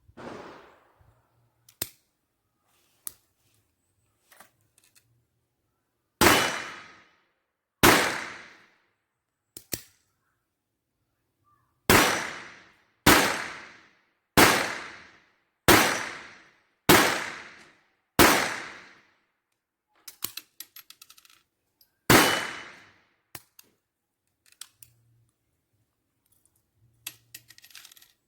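Taurus PT-22 .22LR pistol firing RWS Subsonic HP rounds: two shots, a pause, six shots about a second and a quarter apart, then one more shot, each with a short ringing tail. Small clicks of gun handling come between the shots.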